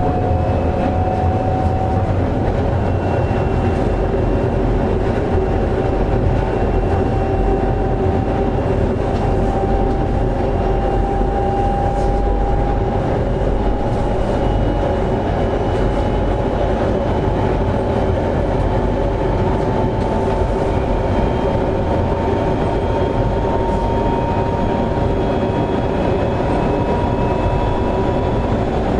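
Semboku Rapid Railway 7020 series electric train running, heard on board: a steady rumble from the wheels and track, with a traction-motor whine whose pitch climbs slowly throughout as the train gathers speed.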